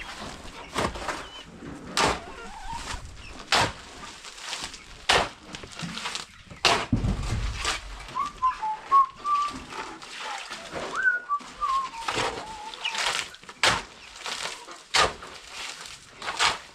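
Sharp knocks repeating about every one and a half seconds, with a short run of high chirps in the middle.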